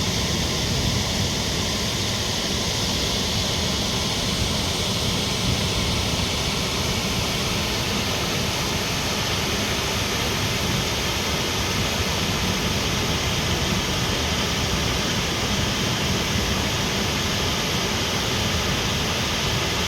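Waterfall rushing, a steady roar of pouring water that holds even throughout.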